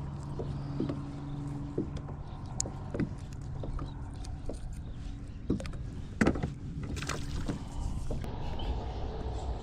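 Kayak on the water: water sloshing against the hull with scattered knocks, the loudest about six seconds in, and a low steady hum through the first four seconds.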